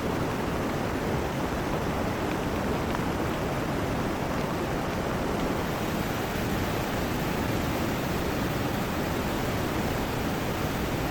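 Heavy rain and rushing river water making a steady, even roar with no breaks.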